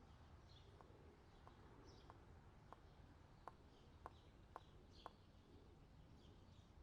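Faint birds chirping over and over, each call a quick downward sweep. In the middle come about eight light clicks, roughly one every half to three-quarters of a second, growing a little louder.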